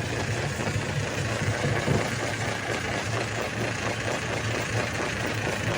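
Stone crusher machine running with a steady low mechanical drone and fast, even pulsing.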